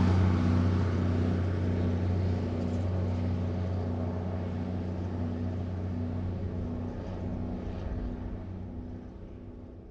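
1954 big rig truck's engine receding after passing by at medium speed, a steady low engine note fading away steadily into the distance.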